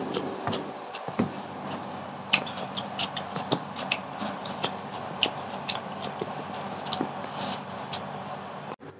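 A person chewing a mouthful of food close to the microphone, with many small sharp clicks and crunches over a steady low hum; the sound cuts off abruptly just before the end.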